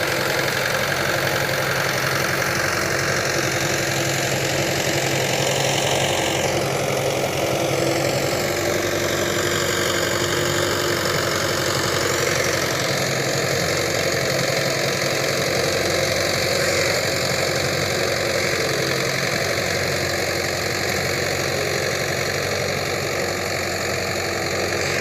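Tractor engine running steadily, its pitch sagging a few seconds in and coming back up again a few seconds later.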